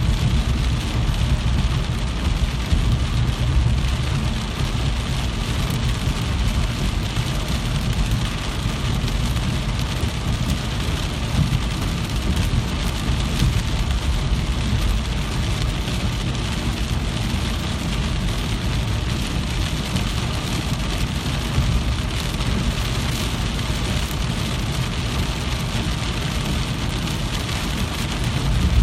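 Steady, unbroken rain falling, with a constant low rumble beneath the hiss of the drops.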